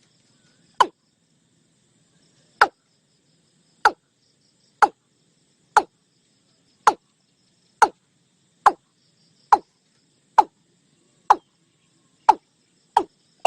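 Watercock calling: a series of short, hollow notes that each drop in pitch, about one a second, quickening near the end.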